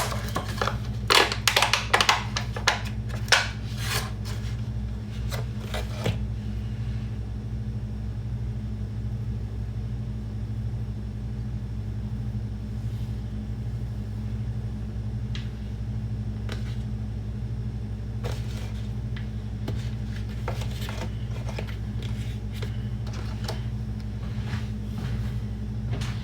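Kitchen clatter of dishes and utensils clinking and knocking, dense for the first six seconds, then only occasional clicks and taps, over a steady low electrical hum.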